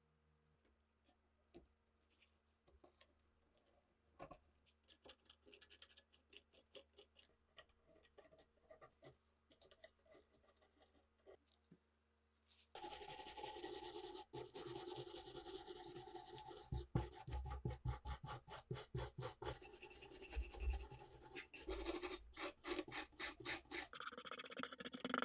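Hand-worked rubbing and scraping strokes: faint and scattered at first, then from about halfway much louder, fast back-and-forth scraping.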